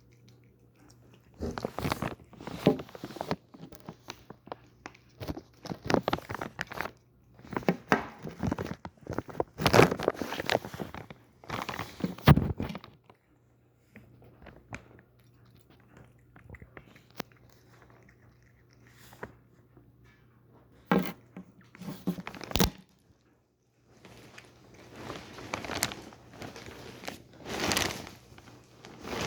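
Domestic cat noisily chewing and biting at its food, in runs of a few seconds of wet, clicky chewing broken by short pauses, with a few sharp bites a little past the middle.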